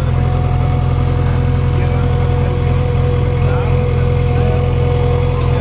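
Diesel engine running steadily at an even pitch, with a steady whine riding on top.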